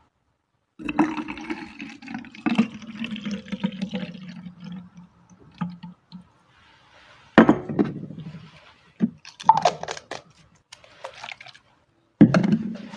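Water poured into a spray bottle for about five seconds, then a few short, sudden bursts of liquid sloshing as the bottle is shaken to mix the spray.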